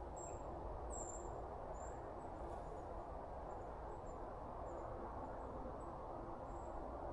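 Faint, short, high-pitched chirps from an insect or small bird, repeating irregularly every second or so over a steady outdoor hiss.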